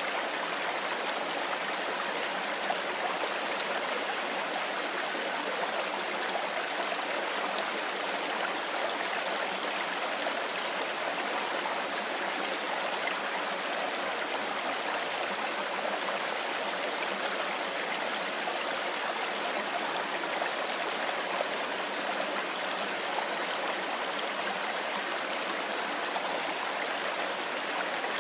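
Mountain river flowing over stones, a steady rushing and babbling of water with no pauses or changes.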